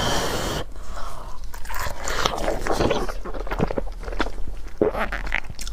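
Close-up chewing and biting of cabbage dumplings: a run of irregular short mouth clicks and smacks.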